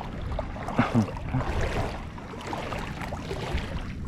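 Shallow lagoon water sloshing and splashing in uneven surges as a person wades through it.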